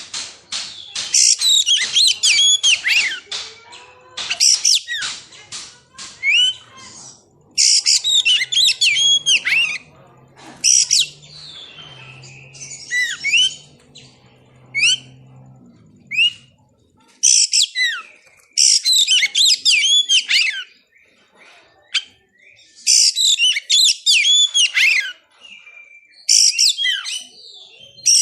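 Oriental magpie-robin (kacer) singing in repeated bursts of rapid, varied whistles and chirps. Each phrase lasts a second or two, with short pauses between.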